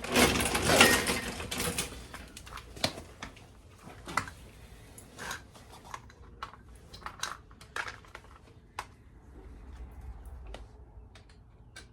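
Tools and small metal parts being handled: a loud rustling clatter in the first two seconds, then scattered sharp clicks and taps.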